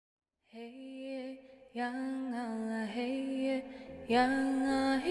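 Music: a solo voice singing long, held notes in three phrases, starting about half a second in.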